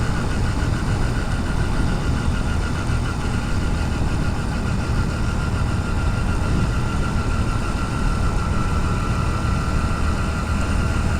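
Motorcycle in motion heard from a helmet-mounted camera: a steady engine drone and rushing road and wind noise, with a thin steady whine above it.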